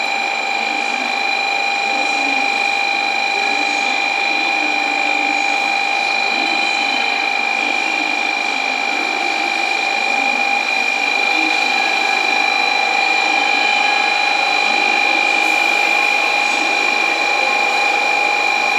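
N700A-series Shinkansen train rolling slowly along a station platform: a steady high electrical whine over an even rushing running noise, growing a little louder about halfway through.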